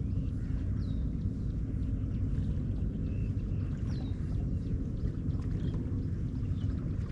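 Seaside morning ambience: a steady low rumble with birds chirping over it, a few short, high, downward-sweeping calls.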